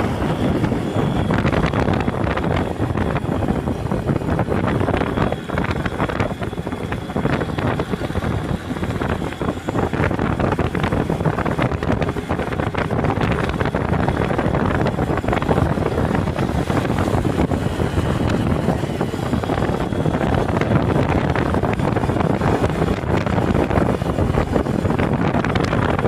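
Steady, loud wind buffeting the microphone of a moving motorcycle, with road and engine noise blended underneath.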